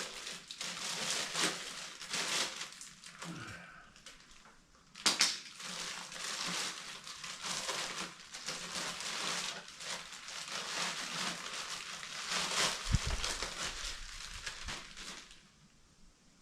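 Tough plastic packaging and heavy tape being pulled and torn off a part, a continuous crinkling and crackling with a sharp rip about five seconds in and a dull thump near the end, stopping shortly before the end.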